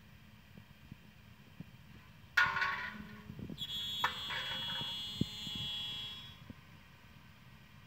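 CNC lock-slot milling machine cutting into an aluminium window profile. It starts suddenly a little over two seconds in, then settles into a steady high-pitched whine that fades out about six seconds in.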